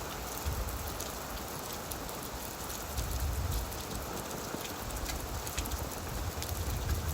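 Gentle rain falling on leaves: a steady patter of many fine drop ticks. Underneath, a low rumble swells and fades.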